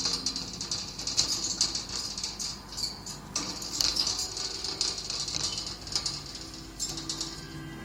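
Lovebirds chattering: rapid, high-pitched squeaky twittering in runs, with a short break about three seconds in and another run near the end.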